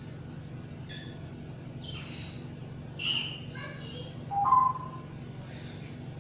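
Pet bird making a few short chirps, squawks and whistles, the loudest a clear whistle about four and a half seconds in, over a steady low hum.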